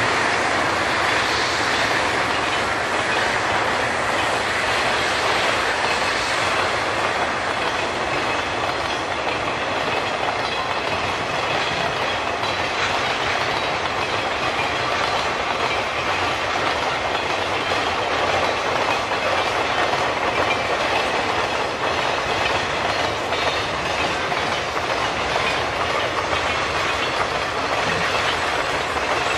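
Freight train boxcars rolling past, a steady, unbroken noise of steel wheels running on the rails.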